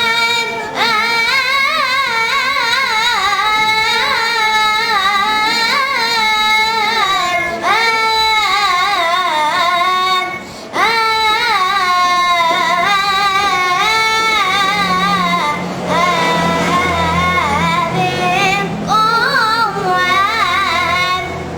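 A young boy singing solo in an ornamented Arabic style, his voice wavering and gliding through long melismatic phrases with brief breath pauses. From about halfway through, a low steady drone sounds beneath the voice.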